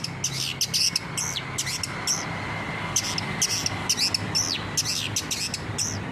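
Long-tailed shrike (cendet) singing hard: a rapid run of short, harsh high notes, many of them falling in pitch, about three or four a second.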